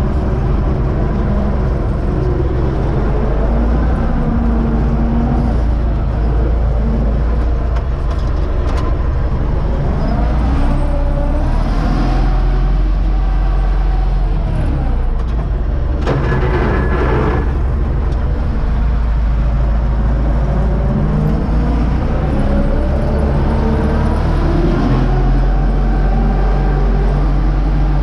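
UTB Universal U650 tractor's four-cylinder diesel engine running steadily while pulling a seed drill, its note drifting slightly up and down. A short burst of noise comes about two thirds in.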